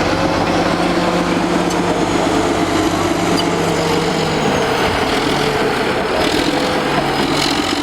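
Old Caterpillar D8 bulldozer's diesel engine running steadily.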